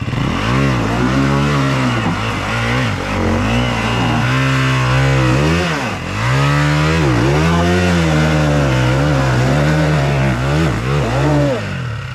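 Enduro dirt bike engine revving hard and unevenly, its pitch climbing and falling again and again as the throttle is worked. There are two sharp drops in revs about halfway through and another near the end.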